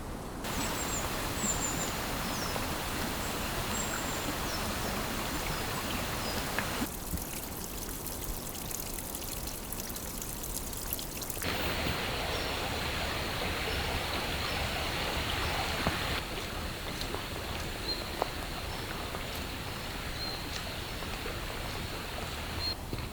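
Steady rush of running water, with a few faint high bird chirps. The sound changes abruptly in tone and level several times.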